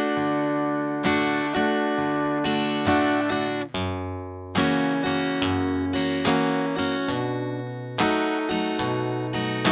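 Acoustic guitar strummed in a bass-and-strum pattern: a single bass note, then down and up strokes across the chord, repeating about twice a second. The bass note changes with the chord about every three to four seconds.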